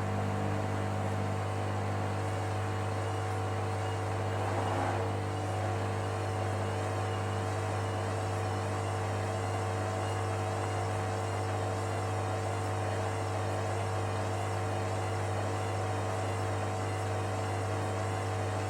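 Hoover Dynamic Next washing machine's drum motor running with a steady hum as the machine makes another attempt to balance a bathmat load for its first intermediate spin, which it keeps failing to reach. A brief swell about four and a half seconds in.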